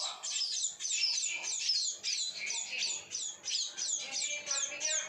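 Baby birds giving a rapid, continuous run of high begging chirps, each a short call sliding down in pitch, about four or five a second: hungry chicks calling to be fed.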